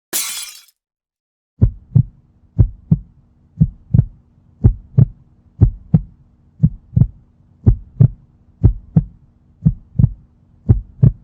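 Heartbeat sound effect: paired lub-dub thumps about once a second over a faint steady hum, starting about a second and a half in. At the very start, a brief high crashing hiss, the tail of a glass-breaking effect.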